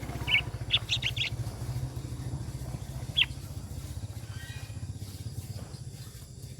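A sooty-headed bulbul gives short, sharp chirps: one, then a quick run of several about a second in, and another near three seconds, over a low steady rumble that fades away about four seconds in.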